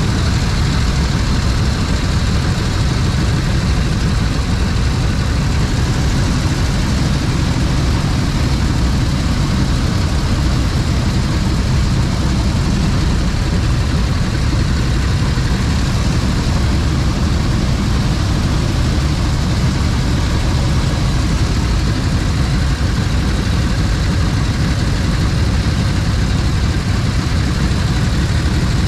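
Motorcycle engine running steadily, with heavy wind rumble on the microphone.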